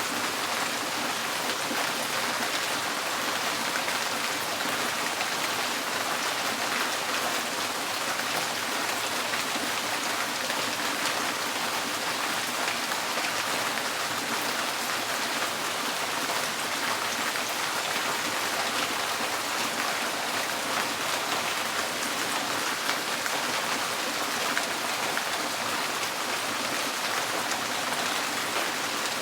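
Steady rain drumming on a tin porch roof, a dense even patter of countless drops.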